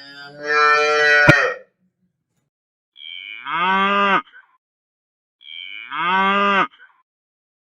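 Cow mooing: three moos. The last two sound alike, and each drops in pitch at its end.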